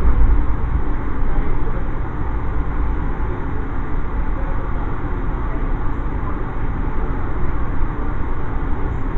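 Steady rumble and rush of a moving Amtrak passenger train, heard from inside the coach.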